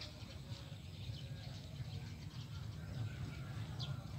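Small birds chirping in short, high calls, one standing out near the end, over a steady low rumble.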